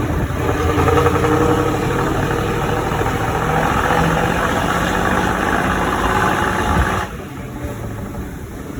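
Dump truck's V8 diesel engine and exhaust running loud, swelling over the first second and holding steady, then dropping sharply about seven seconds in to a quieter engine sound.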